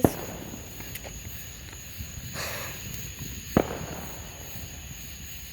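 Two sharp firework bangs, one right at the start and one about three and a half seconds in.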